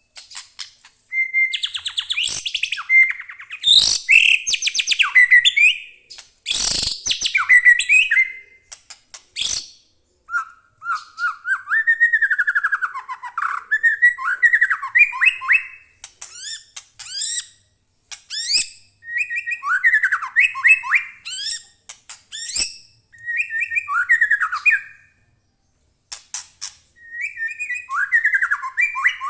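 White-rumped shama (murai batu) singing a loud, varied song of gliding whistles and rapid trills in phrases with short pauses between them. Harsh rattling bursts (kretekan) are mixed in during the first eight seconds or so.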